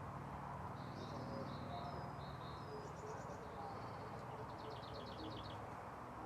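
Faint birdsong: a small bird's high chirps and two quick trills, over a low steady hum of room tone.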